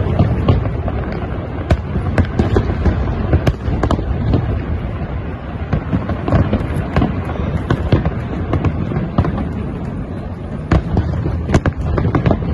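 Aerial fireworks shells bursting in a large display: many sharp bangs and crackles in quick, irregular succession over a continuous low rumble.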